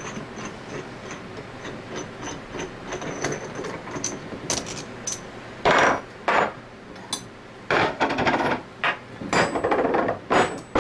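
Hand tools and metal pump parts being knocked and scraped together during reassembly of a scroll vacuum pump. There is light ticking about three times a second for the first few seconds, then a run of louder knocks and scrapes.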